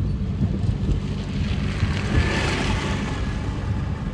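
Heavy diesel construction machinery running steadily, with a hissing swell of noise rising and fading around the middle.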